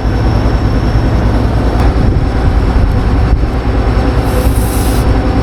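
John Deere combine harvester running steadily, a loud low rumble of engine and threshing drum, with a brief hiss near the end.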